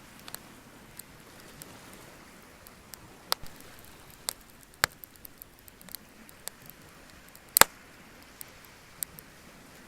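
Bonfire crackling: irregular sharp pops and snaps, the loudest about three-quarters of the way through, over a low steady hiss.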